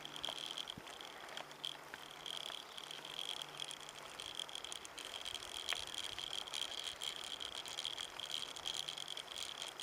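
Insects chirping in a steady, high, pulsing trill.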